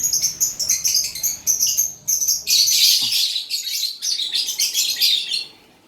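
Lovebirds chattering, a dense run of rapid, shrill chirps from several birds that breaks off shortly before the end.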